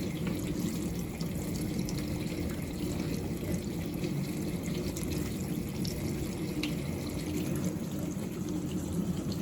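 Countertop mini dishwasher running its wash cycle: the circulation pump motor hums steadily while water sprays and splashes inside the tub. The pump is running again after its faulty capacitor was replaced.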